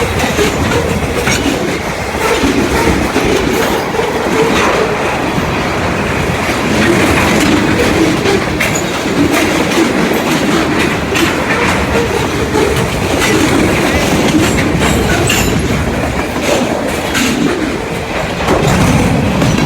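Manifest freight train rolling past at close range: a steady, loud rumble of wheels on rail with a running clatter of clicks as the wheels cross the rail joints.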